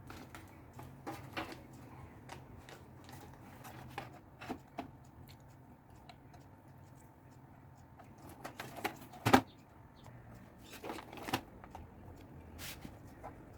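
Scattered light clicks and taps over a low steady hum, with a sharper knock about nine seconds in.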